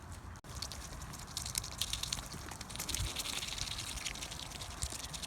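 Geese pecking feed off the ground: a dense, rapid patter of small bill clicks that thickens about a second in, over a low wind rumble on the microphone.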